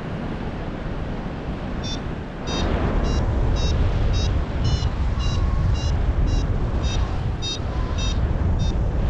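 Paragliding variometer beeping about twice a second. This is the climb tone that signals rising air. Wind rushes on the microphone underneath and gets louder about two and a half seconds in.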